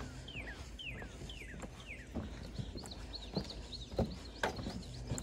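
A bird singing a run of about five quick down-slurred whistles, roughly two a second, then shorter, higher chirps, with a few sharp knocks in between.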